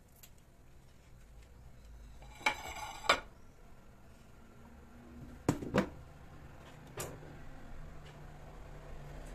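Hard objects clinking and knocking, like dishware being handled. There are two knocks with a short ringing between them, then two more close together a couple of seconds later, then a fainter one.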